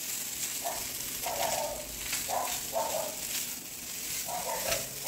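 Steady hissing sizzle of food frying in oil, with several brief mid-pitched sounds over it.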